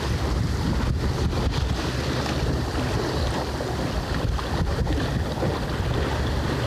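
Steady wind buffeting the microphone on a small sailboat under way, over the rush of water along the hull.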